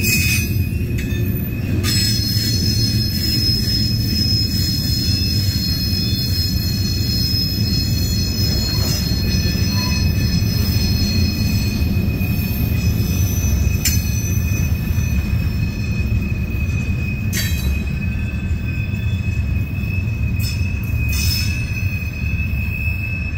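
Loaded Herzog gravel hopper cars rolling past on the rails: a heavy low rumble of wheels on track with a steady high-pitched wheel squeal. Extra, higher squealing tones join in from about 2 to 12 seconds in. The last car goes by near the end.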